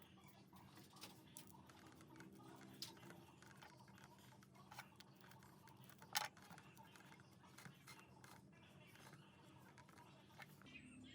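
Faint scattered clicks and light taps over a low steady hum, with one sharper click about six seconds in.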